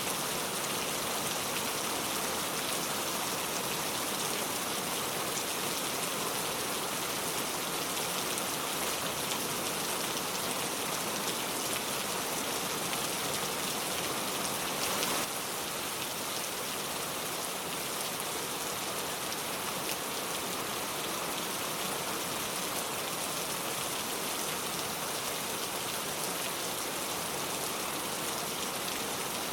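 Steady rain falling, an even hiss of drops. About halfway through there is a brief click and the level drops slightly.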